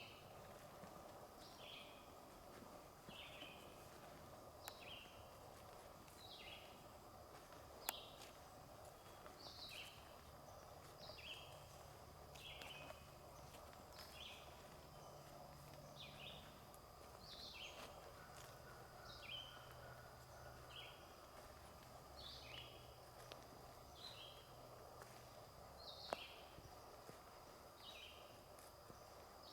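A songbird faintly repeating a short two-note call, a higher note dropping to a lower one, about every one and a half to two seconds. Two sharp snaps, about 8 and 26 seconds in, stand out above it.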